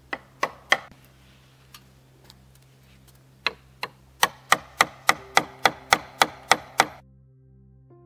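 Hammer driving a nail into a wooden rafter: a few sharp blows at first, then after a pause a steady run of about a dozen strikes, roughly three a second, that stops suddenly near the end.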